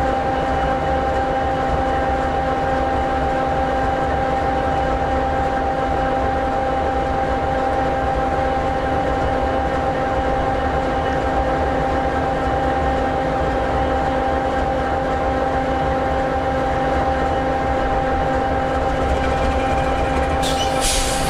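EMD 16-710G3B sixteen-cylinder two-stroke diesel engine of an SD60E locomotive idling steadily: a low rumble with a steady whine held over it. A short burst of hissing noise comes in near the end.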